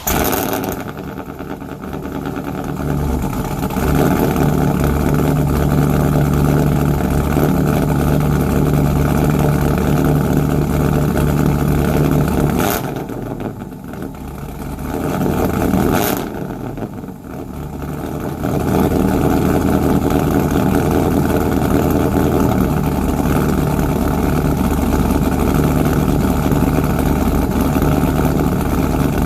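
A 2002 Trans Am WS6's LS1 V8 with an aftermarket PatG camshaft, firing up cold and running at idle. It grows louder about four seconds in and dips twice around the middle, with two sharp clicks, before settling into a steady idle.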